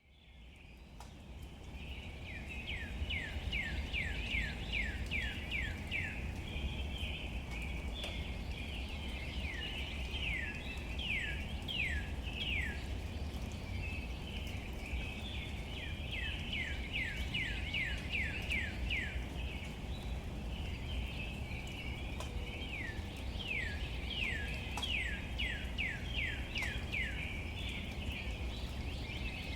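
Light rain pattering on leaves over a steady low rumble, fading in over the first couple of seconds. A songbird sings four times, each song a fast run of about eight to ten downward-sliding whistled notes.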